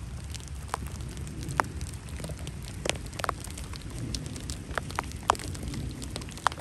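Rain falling, with large drops landing close by as irregular sharp taps, a few a second, over a steady low rumble.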